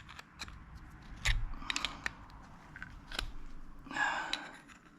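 Flat screwdriver prying and scraping under an old seal around the rim of a hydraulic cylinder's steel collar to lever it out: scattered sharp metal clicks, with a longer scrape about four seconds in.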